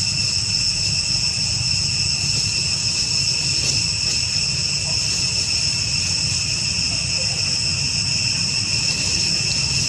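Steady, unbroken high-pitched insect drone, with a low steady rumble underneath.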